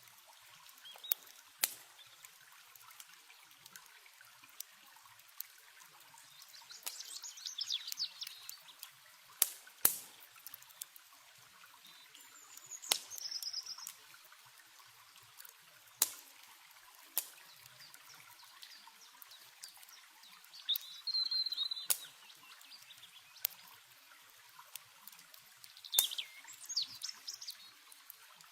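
Campfire crackling with sharp, irregular pops over a steady hiss of running river water, while birds sing short chirping phrases now and then.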